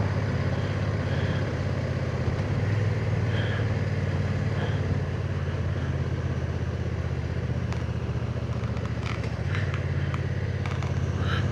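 Honda NT1100's parallel-twin engine running steadily while the motorcycle climbs a hill road.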